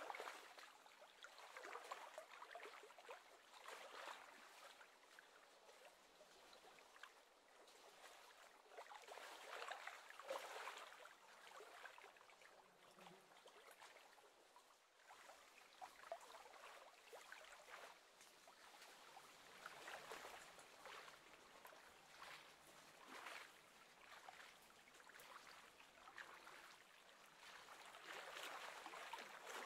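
Faint lapping of small waves on lake water, a soft wash that swells and fades every few seconds.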